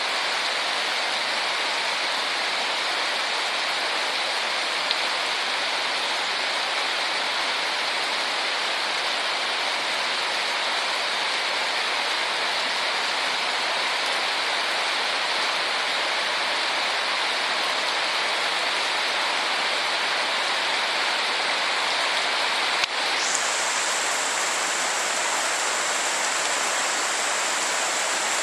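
Light tropical rain falling steadily, an even hiss of rain on surfaces. Near the end, after a small click, a steady high-pitched tone joins it and holds.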